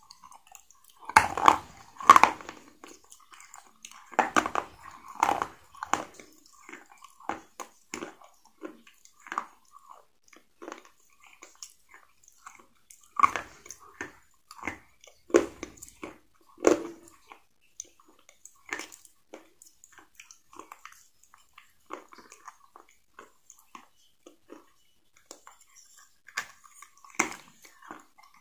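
Close-miked mouth sounds of a person biting and chewing something crunchy: sharp crisp crunches at irregular intervals, loudest near the start and again around the middle, with softer chewing crackles between.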